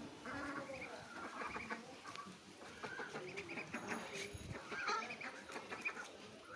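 A flock of ducks calling, many short overlapping quacks and chatters.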